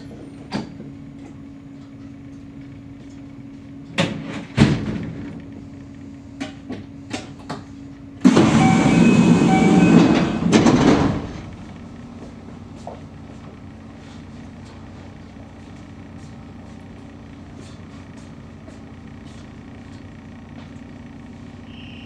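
Stationary Kintetsu electric commuter train with a steady low electrical hum. A few sharp clicks come around four to five seconds in, then a loud rushing hiss lasts about three seconds midway, with a short break near its end.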